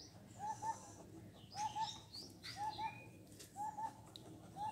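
Birds calling faintly: a short double note repeated about once a second, with higher chirps mixed in.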